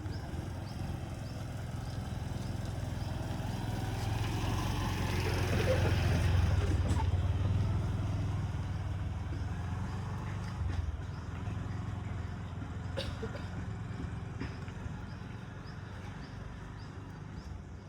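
A motor vehicle drives past. Its engine hum and road noise build to loudest about six seconds in, then fade away.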